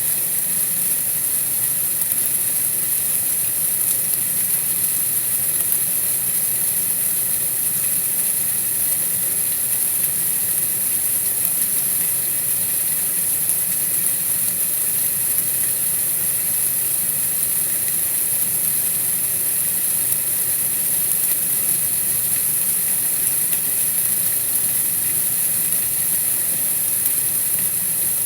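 Steady, even hiss, strongest high up and unchanging throughout, with no distinct events.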